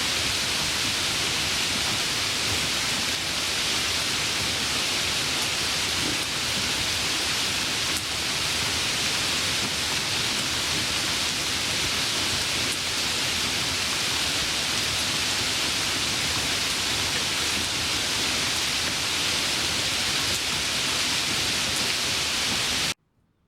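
Steady rain sound, an even hiss with no distinct drops or rhythm, that cuts off suddenly near the end into near silence.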